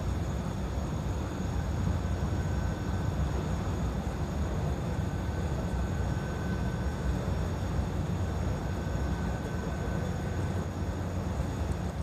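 Asagiri engine running steadily on a test run, with an even low-pitched drone and no change in speed.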